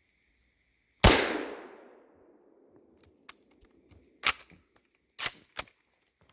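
A single rifle shot about a second in, its report dying away over about a second, followed by a few sharp clicks.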